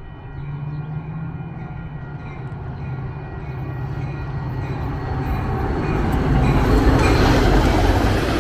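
Metra diesel-hauled commuter train approaching and growing steadily louder. A low engine drone and rumble build up, and a rushing, hissing rail and wheel noise swells over the last few seconds as the train draws close.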